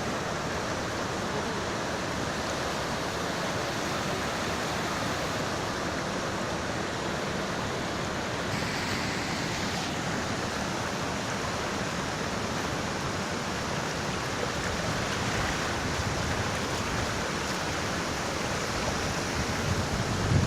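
Heavy floodwater rushing steadily.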